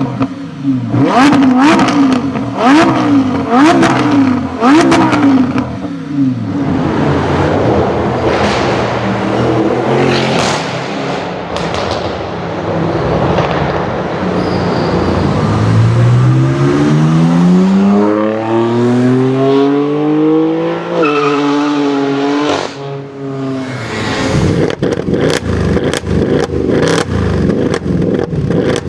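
Supercar engine revved in about five quick throttle blips, then a long acceleration with the pitch rising steadily through a gear before a shift. Near the end comes a dense run of sharp pops and cracks.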